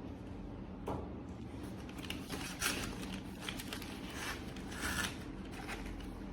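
Handling noises: about half a dozen short scrapes and clicks from objects being moved and worked by hand, over a low steady background.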